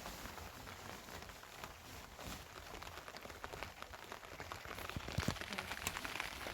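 Rain falling: a steady hiss full of small drop ticks, with a few sharper drips or taps near the end.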